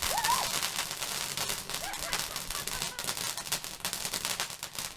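Fireworks crackling: a rapid, dense run of small sharp bangs and pops.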